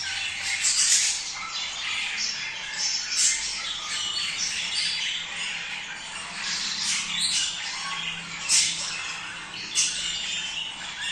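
A flock of budgerigars chattering continuously, with sharp squawks standing out above the chatter several times. This is the kind of flock chatter that breeders play to stimulate breeding.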